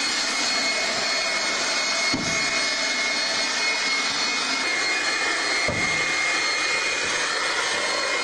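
A blower running steadily as a wind machine, a rushing of air under a steady high whine.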